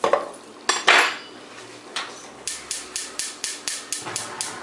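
A couple of sharp knocks of utensils against the pan, then a gas stove burner's igniter clicking quickly and evenly, about six clicks a second for two seconds, as the burner is lit.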